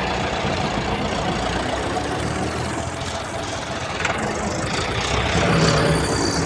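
An engine running at idle, steady and low-pitched, growing a little louder about five seconds in.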